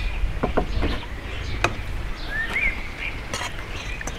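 Birds chirping a few times over a steady low rumble, with several short clicks.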